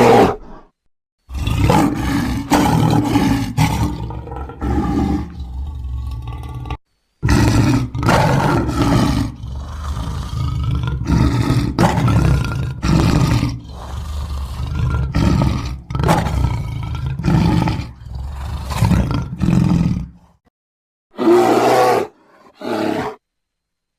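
Bear sound effects: a run of deep roars and growls standing in for an extinct Florida spectacled bear, each call a second or two long, edited together with abrupt cuts and a few short silent gaps.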